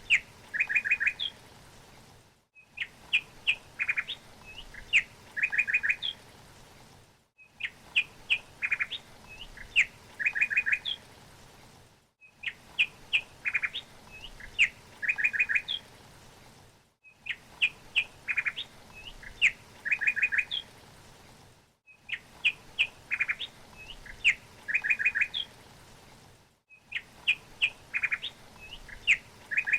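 A songbird's phrase of sharp chirps followed by a quick trill of about four notes, repeated identically about every five seconds with a brief silent gap between repeats: a looped bird-song recording.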